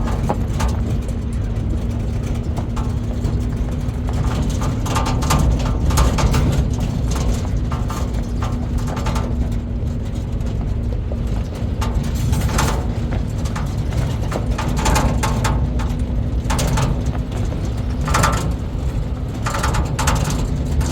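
A motor engine running steadily, with a low rumble and a constant hum, and brief fainter sounds coming and going over it.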